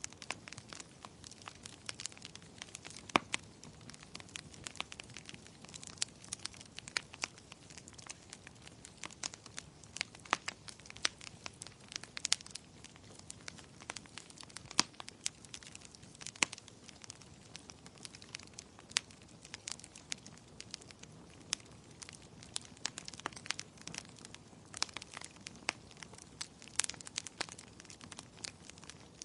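Wood fire crackling: many irregular sharp pops and snaps of varying loudness over a soft, steady hiss.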